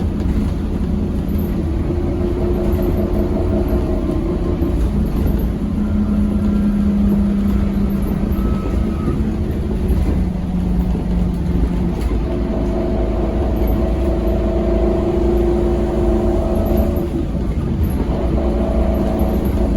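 Scania K270UB6 Omnilink bus with ZF Ecomat automatic gearbox running under way, heard on board: a steady deep engine rumble with whining tones that rise and fall several times as the bus pulls and changes speed.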